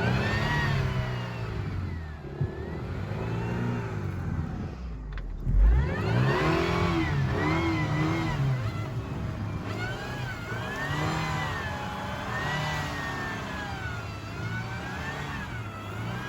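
Car engine revving up and down repeatedly, its pitch rising and falling every second or two, with a brief dip and a low thump about five seconds in.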